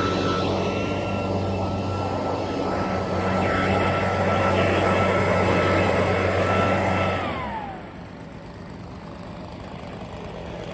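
Lawn mower engine running steadily with a high whine over its hum. About seven seconds in it shuts off, and the whine falls in pitch as the machine winds down.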